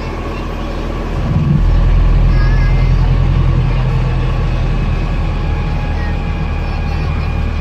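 Wright StreetDeck bus's Daimler OM934 four-cylinder diesel engine running steadily, then picking up and growing louder about a second in, and holding that higher, heavier note.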